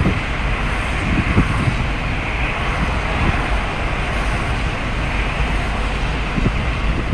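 Steady rain, an even hiss, over a constant low rumble of wind on the microphone, with a few soft low thumps.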